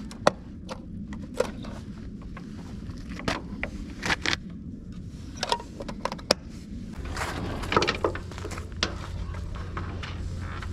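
Irregular clicks and knocks of objects being handled, a dozen or more sharp taps spread unevenly over a low steady hum, with a short rustling stretch about seven seconds in.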